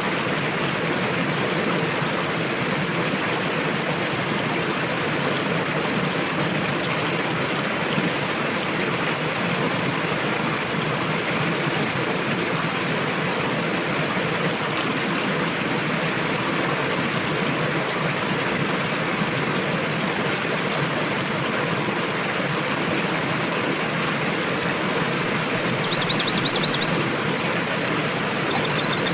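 A river rushing steadily, with an even, unbroken water noise. Near the end a small bird gives two short, rapid trills.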